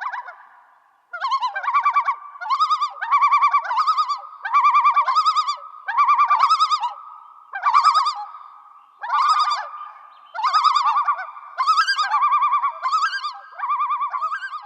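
A warbling, bird-like call repeated about a dozen times in short trilled phrases, each under a second, over a faint steady tone.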